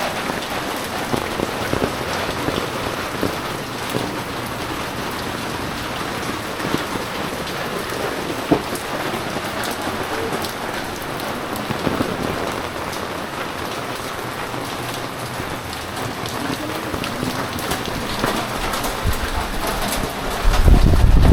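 Heavy typhoon rain falling steadily on surfaces, a dense patter with individual drops ticking through it. Near the end a loud low rumble comes in.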